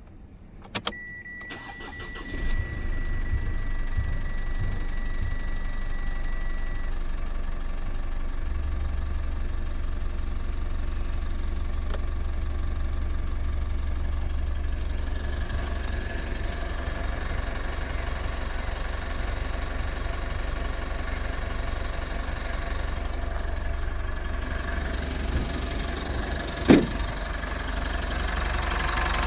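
Mitsubishi Triton MQ's 4N15 2.4-litre turbo-diesel engine starting about two and a half seconds in, then idling steadily. A steady beep-like tone sounds for a few seconds before and during the start, and there is one sharp knock near the end.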